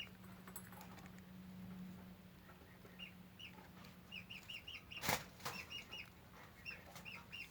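Young Serama and Silkie chicks peeping softly, with short high peeps coming in quick runs. There is a brief rustle about five seconds in.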